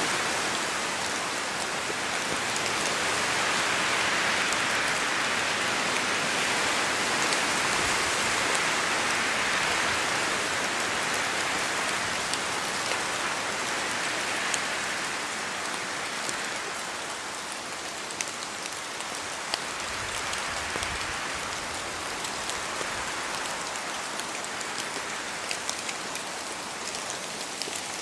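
Steady rain falling on forest foliage, with scattered louder drops dripping from the trees. The hiss swells louder in the first half, then eases off.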